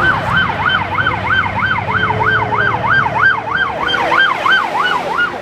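Emergency vehicle siren in a rapid yelp, its pitch sweeping up and down about three times a second, getting fainter near the end.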